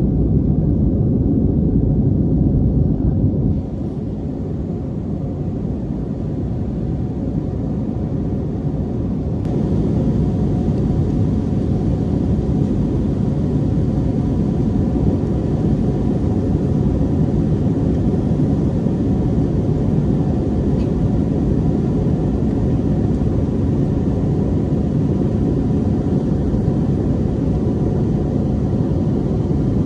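Steady low rumble of an Airbus airliner cabin in flight, with a few faint steady tones over it. The level drops suddenly about three and a half seconds in and is back up by about ten seconds.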